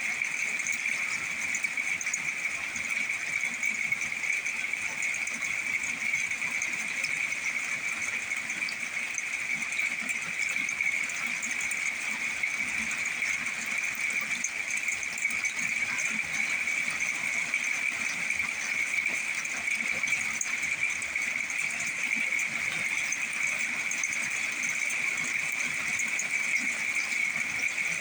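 Steady, high-pitched chorus of calling insects over a faint, even patter.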